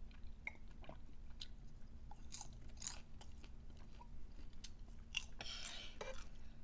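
Close-up eating sounds: chewing with scattered soft crunches and small mouth clicks.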